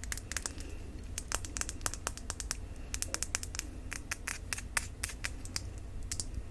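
Light, quick tapping on a small glass makeup bottle: irregular crisp clicks, several a second, some in quick runs.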